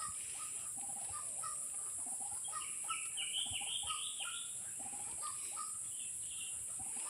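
White-breasted waterhens calling, taken by the trappers for the caught bird's mate: a string of short repeated notes, with a run of higher, stepped calls in the middle. A steady high-pitched hiss runs underneath.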